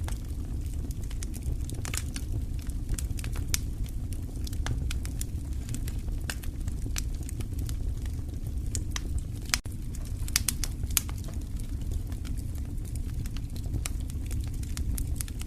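Wood fire crackling, with irregular sharp pops and snaps over a steady low rumble of the flames. The sound drops out for an instant about nine and a half seconds in.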